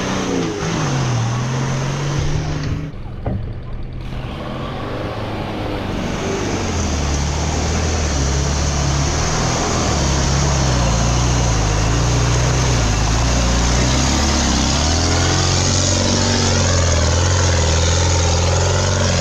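Heavy off-road race truck engine running under load, its pitch rising and falling as it revs through the terrain, with a brief dip about three seconds in.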